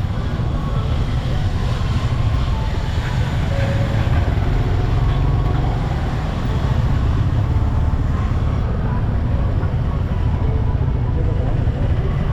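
Steady road and traffic noise heard from a moving bike, dominated by a continuous low rumble.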